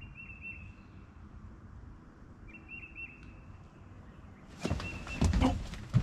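A bird calls twice with a thin, high, whistled phrase of a few quick notes. About four and a half seconds in, loud thumps and rattling begin as a person moves across the pontoon boat's deck to a rod in its holder.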